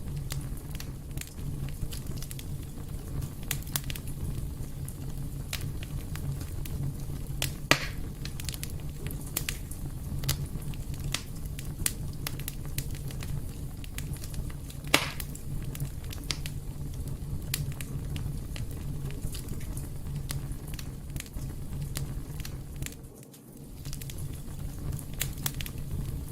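Fire burning in a fireplace: a steady low rumble with frequent small crackles and two louder pops, about 8 and 15 seconds in. The sound briefly dips a few seconds before the end.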